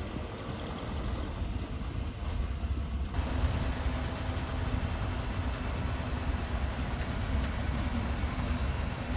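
Diesel engine of heavy earthmoving equipment running with a steady low rumble, growing fuller and louder about three seconds in.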